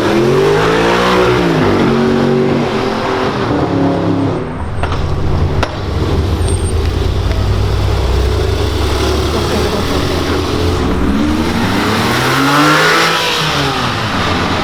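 Car engines revving and driving past, with pitch rising and falling once about a second in and again near the end, over steady low engine rumble.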